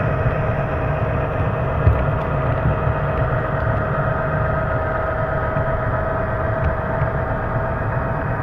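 HO-scale model of a 422 Class diesel locomotive running on the layout, giving a steady diesel engine sound with a few faint ticks.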